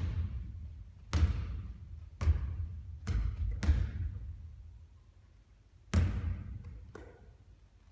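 Basketballs bouncing on a court during shooting practice: about six separate thuds, each followed by a ringing echo, with a lull between about four and six seconds in.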